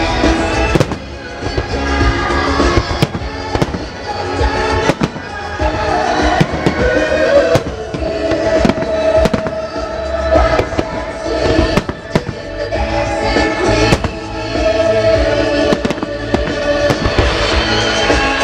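Fireworks shells bursting in a rapid string of sharp bangs and crackles over loud show-tune music played through the display's sound system, the bursts timed to the music.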